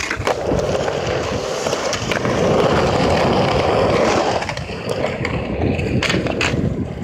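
Skateboard wheels rolling over pavement, growing loudest through the middle and easing off, with a few sharp clacks of the board near the end.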